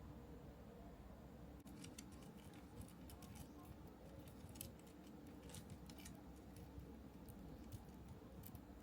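Faint, light clicks and ticks of small kit parts and tools being handled, scattered irregularly from a couple of seconds in until near the end, over a low room hum.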